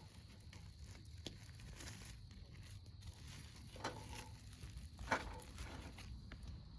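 Soft crinkling and handling noises with a few light clicks, the loudest about five seconds in.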